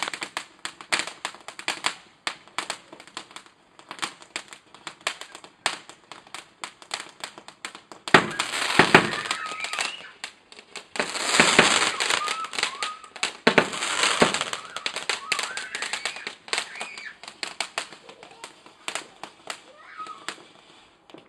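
Fireworks going off: a string of sharp bangs and crackles, rising to two dense, loud spells of rapid crackling about eight and eleven seconds in.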